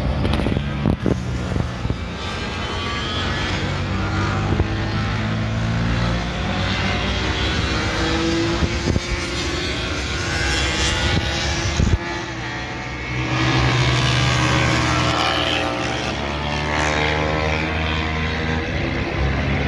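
Motorcycle engine running steadily while riding, with a broad rush of wind noise over it; the engine note shifts about two-thirds of the way through.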